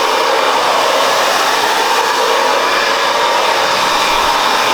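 Handheld hair dryer blowing steadily on a daughter's hair.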